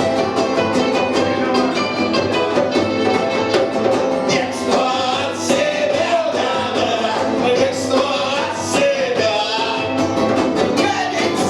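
Punk rock band playing live: loud, dense guitars with drums and cymbal hits, and a singer's voice coming in about four seconds in.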